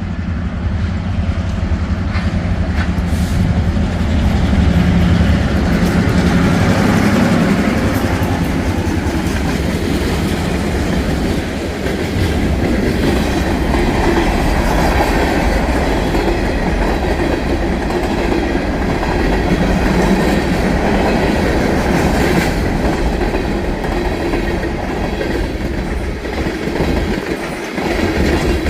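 New York and Atlantic EMD MP15AC and GP38-2 diesel locomotives passing close by with a heavy engine rumble, followed by freight cars rolling past with rhythmic wheel clickety-clack over the rail joints.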